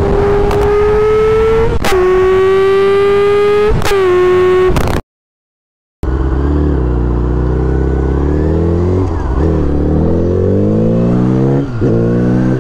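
Motorcycle engine accelerating hard at high revs, its pitch climbing and dropping abruptly twice as it is shifted up through the gears. It cuts off suddenly for about a second, then a deeper-sounding run of the engine climbs in pitch again with two more drops at gear changes.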